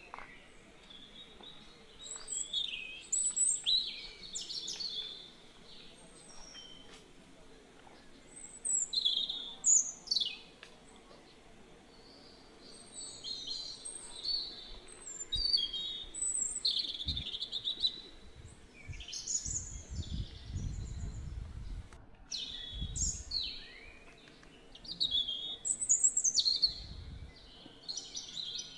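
Several birds chirping and calling in quick, overlapping short notes, some sweeping downward, with low rumbles now and then in the middle stretch.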